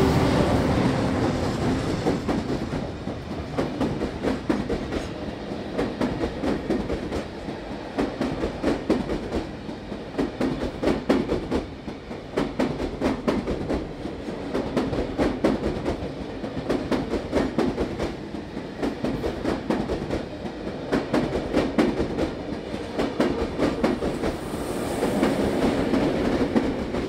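Heritage diesel passenger train passing close by: the locomotives' engine sound fades over the first couple of seconds, then the passenger carriages roll past with their wheels clattering rhythmically over the rail joints. Near the end an engine sound builds again as the trailing locomotive comes up.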